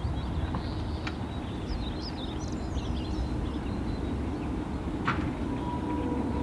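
Small birds chirping and twittering on and off over a steady low rumble, with two sharp clicks, one about a second in and one about five seconds in.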